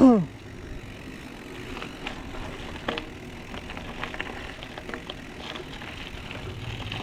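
Riding a full-suspension mountain bike on a paved back road: steady tyre and wind noise with scattered small clicks and rattles from the bike, and a sharper knock about three seconds in. It opens with a short, loud grunt or exhale that falls in pitch, from a rider out of breath on the hills. A low hum comes in near the end.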